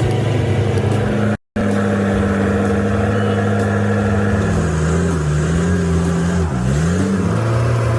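Heavy vehicle engine running steadily. Its pitch wavers from about halfway through, dips sharply and climbs back up as the revs change. The sound cuts out completely for a moment about a second and a half in.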